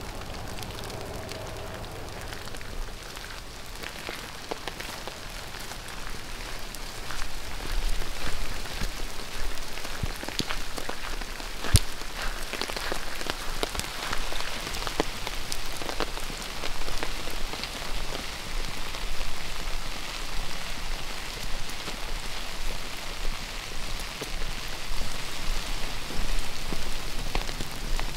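Steady rain falling, getting heavier about six seconds in, with sharp drops tapping on an umbrella overhead and one louder tap near the middle.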